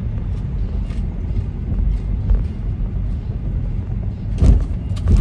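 Steady low rumble of road noise, with a couple of brief knocks near the end.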